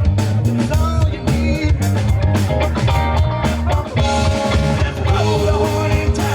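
Live rock band playing an instrumental passage: guitar lines over bass and a drum kit keeping a steady beat.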